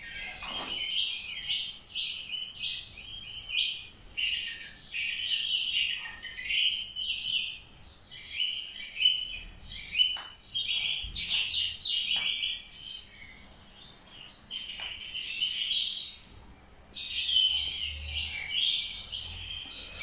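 Small bird chirping and twittering almost without pause in quick high runs of notes, with a few short sharp clicks around the middle.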